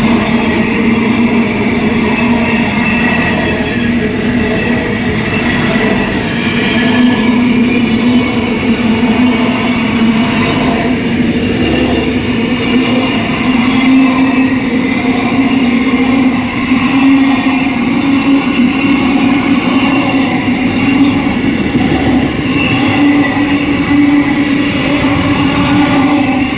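A train running close by: a loud, steady drone with a low tone that rises slightly in pitch over the stretch.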